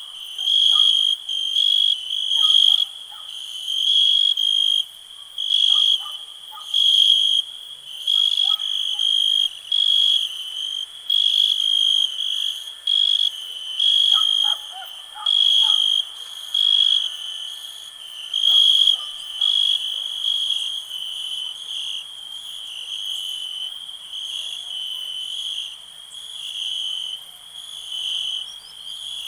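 Crickets chirping: one loud cricket trills in pulses about once a second over a steady high chorus. The pulses even out and soften after about twenty seconds. Faint short calls sound lower down during the first part.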